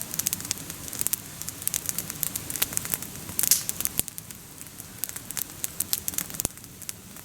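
Small wood campfire burning, with steady irregular crackling and sharp pops from the burning sticks, one louder burst of pops about three and a half seconds in.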